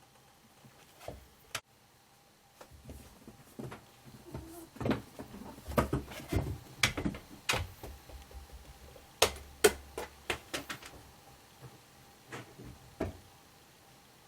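A run of irregular sharp clicks and knocks with a few low thumps, thickest and loudest in the middle, thinning out towards the end.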